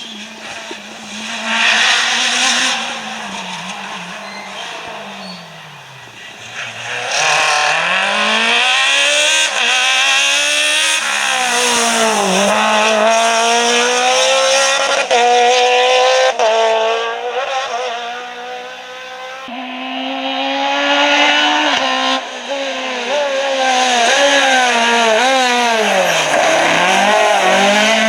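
Rally car engines at high revs, pitch climbing and dropping again and again through gear changes and lifts off the throttle, with several loud passes.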